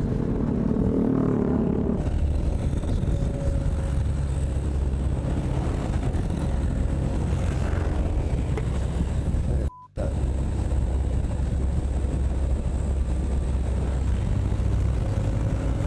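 Steady rumble of a motorcycle ride: engine and road noise mixed with wind on the helmet microphone, cut by a brief dropout to near silence about ten seconds in.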